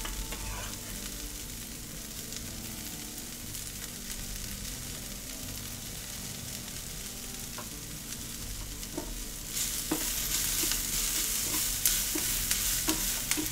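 Onions, red peppers and minced garlic sizzling in oil in a frying pan, stirred now and then, with a few light knocks of the utensil on the pan. The sizzle grows louder and brighter about halfway through.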